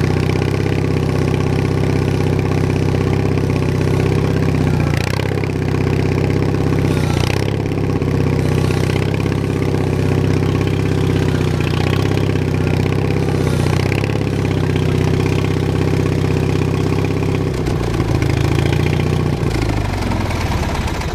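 Bolens HT20 garden tractor engine running steadily, dipping briefly in speed a few times. Near the end it slows and the pitch falls away.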